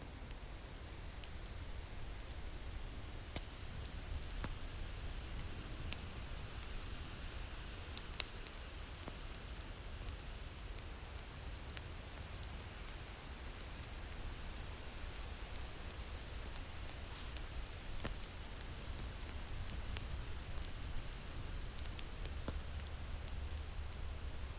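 Crackling wood fire over a low, steady wind rumble: irregular sharp pops and snaps, a few standing out louder, above a constant hiss.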